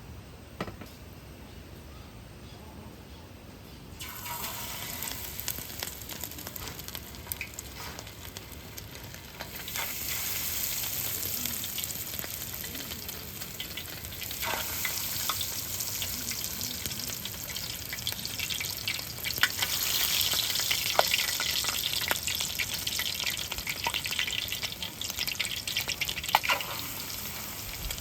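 Food sizzling in a hot pan, starting suddenly about four seconds in and getting louder near ten seconds, with the clicks and scrapes of tongs working the food.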